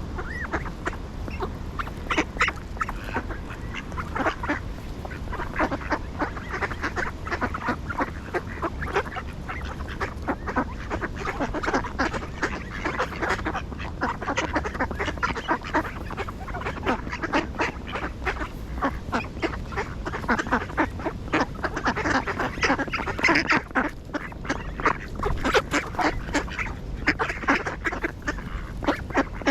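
A flock of ducks quacking and calling, many short calls overlapping without a break.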